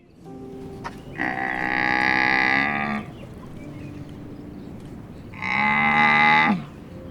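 Cow mooing twice: a long moo and then a shorter one a few seconds later.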